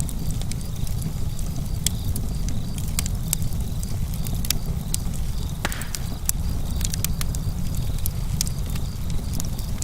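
Campfire burning: a steady low rumble under frequent sharp crackles and pops, with one louder pop a little past halfway.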